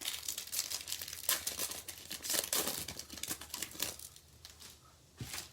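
Foil wrapper of a baseball card pack being torn open and crinkled, a dense run of crackling that dies down near the end.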